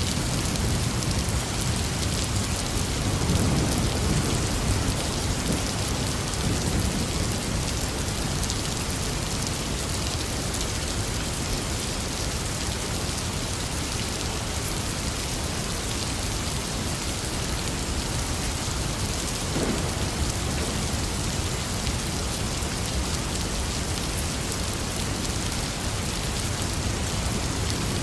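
Steady heavy rain pouring down, with a low rumble of thunder swelling about three seconds in.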